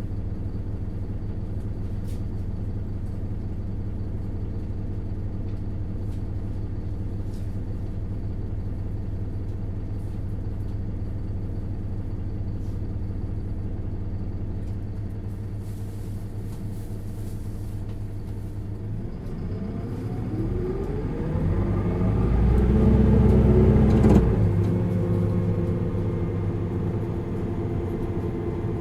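Four-cylinder diesel engine of an Isuzu Erga LV290N1 city bus, heard from on board, running steadily at low revs, then revving up in a rising drone as the bus accelerates. It is loudest a few seconds before the end, then the revs drop and it settles.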